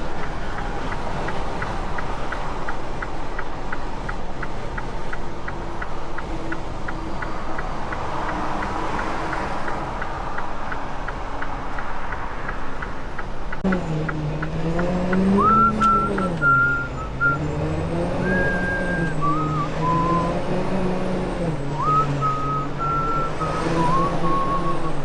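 Semi-truck on the move, heard from the cab: a steady engine and road rumble with a regular ticking about four times a second for roughly the first half. About halfway through, the engine's note rises and falls in steps as the truck pulls away and works up through the gears.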